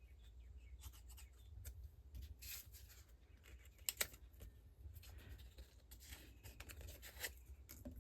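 Faint paper and cardstock handling: light rustling and scraping with scattered small clicks and taps, including a sharper double tick about four seconds in.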